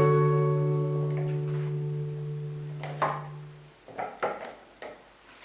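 Gentle guitar background music: a plucked chord rings out and slowly fades away, followed by a few faint soft taps near the end.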